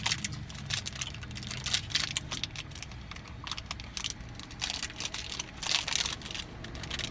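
Close-up chewing of a crunchy protein bar (Premier Protein Yogurt Peanut Crunch): irregular crisp crunches and mouth clicks over a low steady hum.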